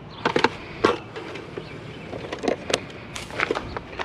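Snips cutting and clacking while a Keurig coffee maker is being taken apart: a string of irregular sharp snaps and clicks, about a dozen.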